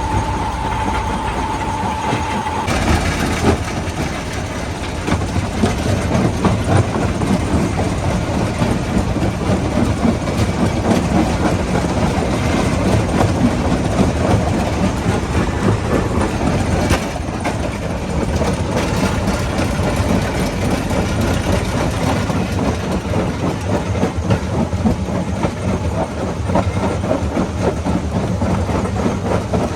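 Rock crusher running and breaking stone, a dense, continuous clattering rumble of rock grinding and knocking inside the machine. A steady whine stops about three seconds in, and the clatter fills out after it.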